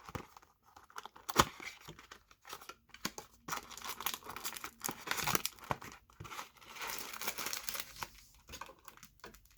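Packaging of a box of trading cards being torn open: tearing and crinkling of wrapper and cardboard, with irregular crackles and a few sharp clicks, the sharpest about a second and a half in.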